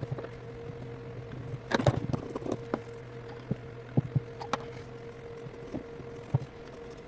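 Small hand tools clicking and tapping against an iPhone 8's opened frame while glue residue is cleared, with a short scraping flurry about two seconds in, over a steady low hum.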